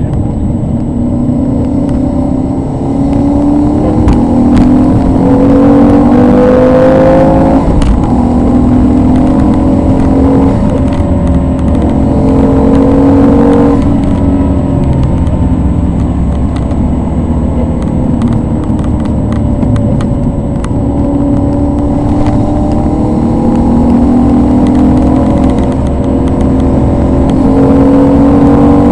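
Maserati 3200 GT's twin-turbo V8, tuned to 460 hp, heard from inside the cabin on track, revving up through the gears with repeated rises in pitch, each cut back at an upshift or as it eases off for a corner.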